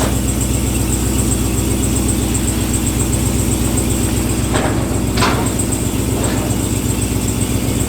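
Car engine idling steadily, with a constant high-pitched whine above the engine note. Two brief higher sounds come a little past halfway.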